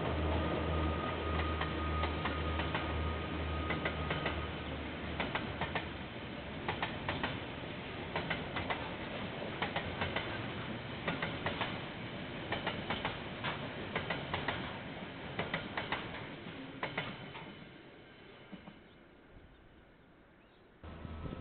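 A KiwiRail diesel freight train passing: the locomotive's engine hums low and pulsing for the first few seconds. Then the container wagons' wheels click over the rail joints, often in pairs, for about ten seconds before the sound fades away.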